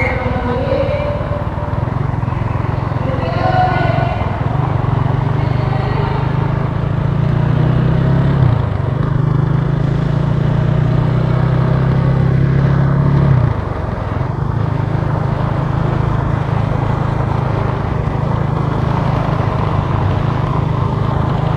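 Italika TC300 motorcycle engine running steadily while riding in traffic. The engine note dips briefly about eight and a half seconds in, then drops more sharply about thirteen and a half seconds in and carries on at a lower level.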